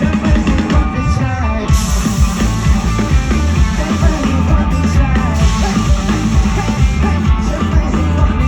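Rock band playing live and loud, with heavy drums and bass; bright cymbals come in about two seconds in.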